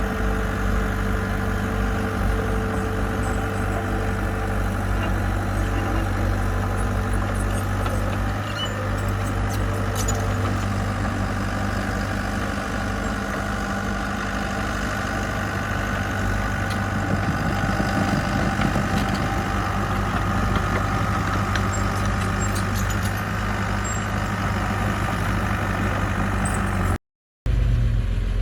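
Diesel engine of heavy construction machinery running steadily at an even speed. Near the end the sound cuts out completely for a moment and comes back as a slightly different engine sound.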